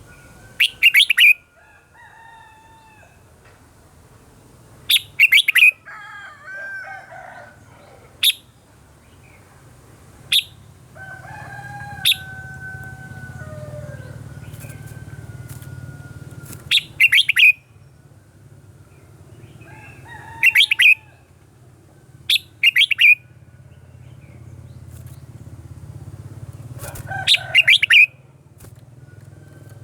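Red-whiskered bulbul singing: short whistled phrases that slide up and down in pitch, broken every few seconds by short, loud, harsh bursts, which are the loudest sounds. A steady low hum runs underneath.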